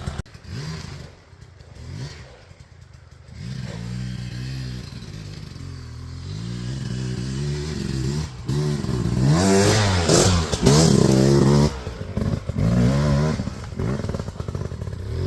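Enduro dirt bike engine being ridden hard. It runs quieter for the first few seconds, then revs up and down over and over as the rider works the throttle, loudest about two-thirds of the way through.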